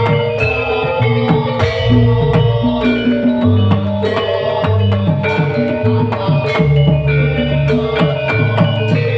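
Live band music with a drum beat, a bass line and sustained melody notes.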